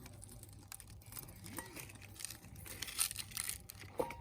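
A burning log fire crackling, with a run of sharp pops and snaps from about a second in, the loudest near three and four seconds.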